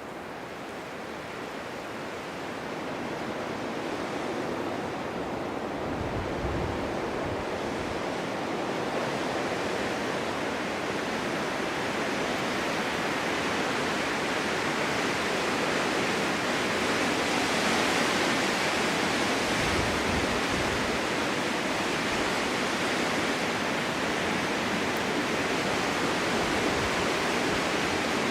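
Winter snowstorm wind blowing in gusts, a steady rushing that builds over the first several seconds and swells again in the middle, with brief low rumbles about six and twenty seconds in.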